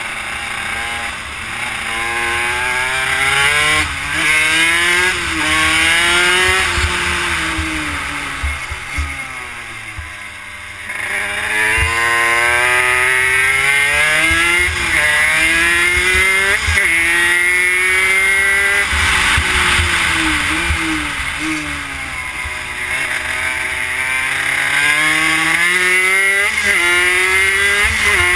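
Honda CR80 two-stroke single-cylinder engine in a Yamaha YSR50 pit bike, revving up through the gears with sudden drops in pitch at each shift, then falling away on the throttle into corners before climbing again. Wind rumbles on the microphone underneath.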